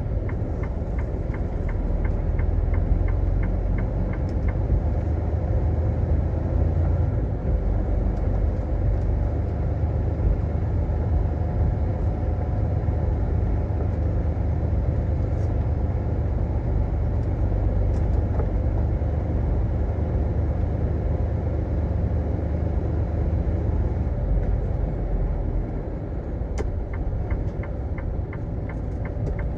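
Semi truck's diesel engine running, a steady low rumble throughout, with a few faint clicks.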